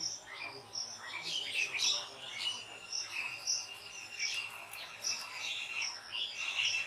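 Birds chirping in the trees: many short, high notes overlapping, with one thin, steady high note held for a few seconds in the middle.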